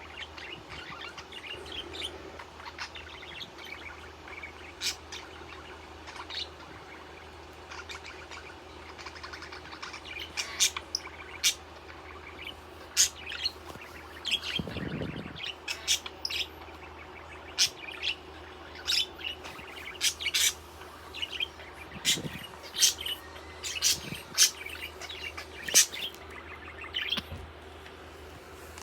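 Pet budgerigar chirping: short, sharp chirps, few at first, then coming quickly one after another through the second half. There are a couple of soft low thuds partway through.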